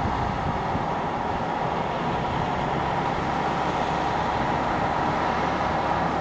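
Scania 112H truck's 11-litre straight-six diesel engine running steadily.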